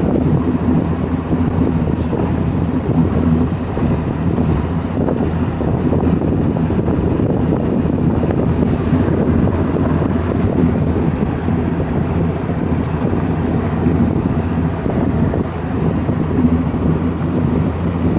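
Wind buffeting the microphone over a steady low motor drone.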